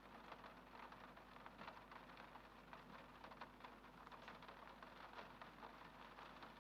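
Faint steady rain, a soft hiss dotted with many small drop taps.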